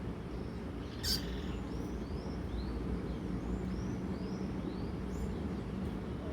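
Female double-collared seedeater (coleiro) calling: one sharp chirp about a second in, then a run of soft, short falling chirps a few times a second. A steady low hum sits underneath.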